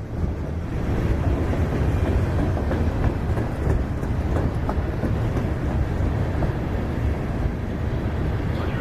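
Freight train rolling past: steel wheels running on the rails in a steady rumble, with scattered faint clicks.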